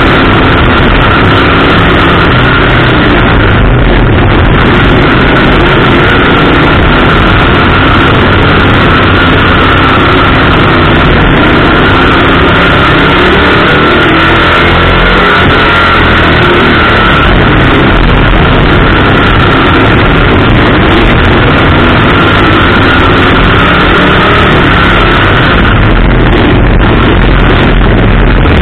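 Race car engine and wind noise heard from a hood-mounted onboard camera while lapping the oval, a loud, constant, distorted roar.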